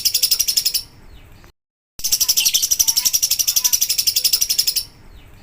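Lovebird ngekek song: a long, fast chatter of rapid high-pitched notes, about fifteen a second. It breaks off about a second in, leaving a short dead-silent gap, starts again about two seconds in and drops away near the end.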